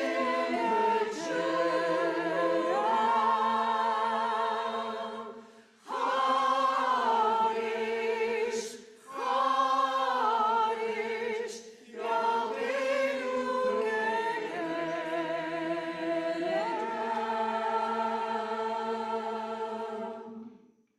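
A choir singing unaccompanied: sustained chords in several phrases with brief breaths between them, the last chord ending just before the end.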